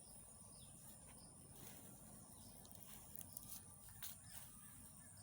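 Faint outdoor ambience dominated by a steady, high-pitched insect drone, with a few faint chirps and soft clicks around the middle.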